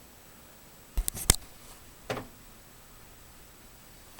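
Quiet room tone broken by two sharp clicks about a second in and a softer knock about a second later.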